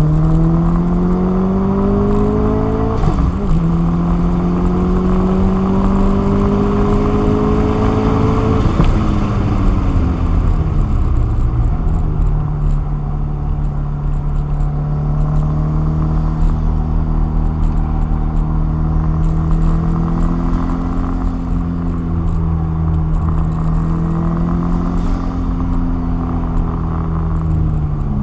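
Car engine heard from inside the cabin under hard driving: it revs up, drops sharply about three seconds in as with an upshift, and pulls up again. Around nine seconds it falls in pitch as the car slows, then holds a fairly steady pitch for the rest.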